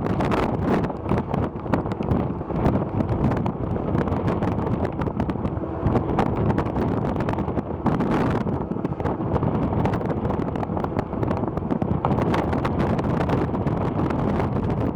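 Wind buffeting the microphone: a dense, steady rumble with frequent gusty thumps throughout.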